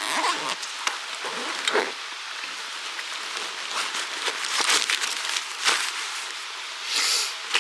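Irregular rustling with scattered light clicks and knocks, swelling louder several times.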